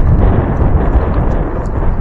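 Wind buffeting the microphone: a loud, rough, uneven low rumble.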